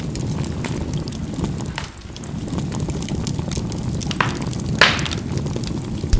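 Charcoal burning in a fireplace: a steady low rush of fire with scattered crackles and sharp pops, the loudest pops coming a little past the middle and just before the end.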